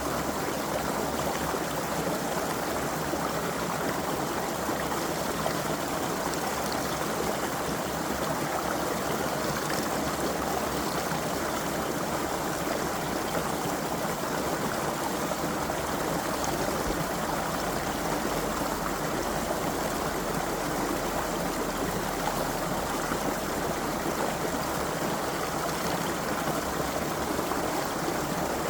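A creek flowing, a steady, even rush and trickle of water with no breaks.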